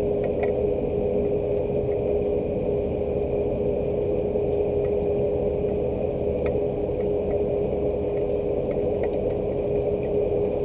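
Steady low mechanical hum holding one pitch, with faint scattered ticks of rain drops.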